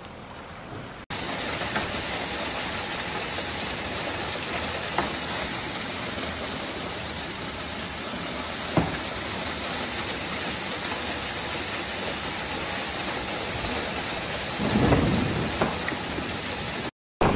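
Heavy storm rain pouring down, a steady loud hiss with a few sharp taps and a swell of rumbling near the end. It starts abruptly about a second in and cuts off just before the end.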